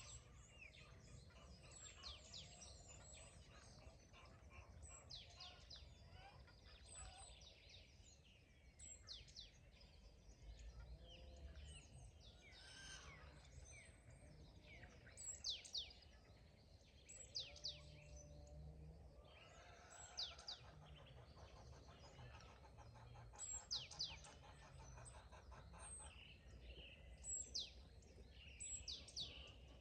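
Songbirds chirping and singing faintly, with short high-pitched sweeping notes repeated throughout and a few louder calls in the second half, over a faint low rumble.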